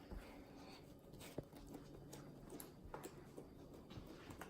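Faint, scattered sticky clicks of homemade fluffy slime being poked and handled by hand, one a little louder about a second and a half in, over near quiet.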